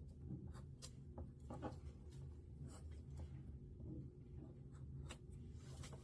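Paper being handled and cut for a paper airplane model: faint, irregular scratchy rustles and light taps, several a second.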